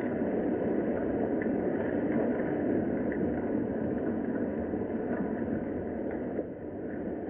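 Steady rain, a low, even rushing with faint scattered drips or ticks, dipping slightly near the end.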